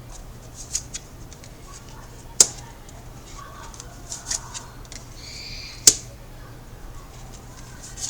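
Tarot cards being handled and laid out on a table: sharp snaps of cards, two louder ones a few seconds apart with lighter taps between, and a short rustle just before the second loud snap.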